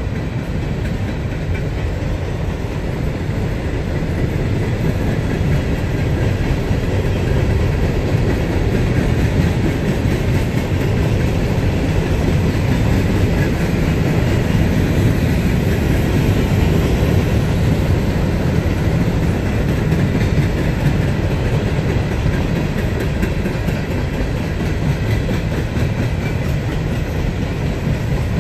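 Empty coal hopper cars of a freight train rolling past on the rails: a steady, loud rumble that swells a little in the middle.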